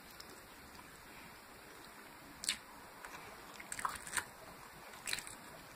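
A person chewing a mouthful of fried chicken and noodles close to the microphone. A few short, wet mouth clicks and smacks come about halfway through and again near the end, over a steady low hiss.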